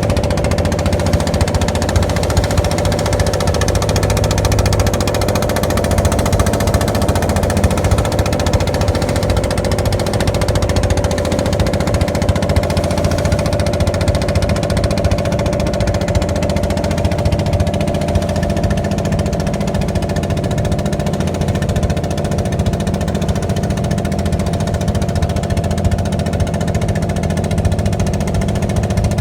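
An engine running steadily at constant speed, with a low rumble and a steady mid-pitched hum that does not change.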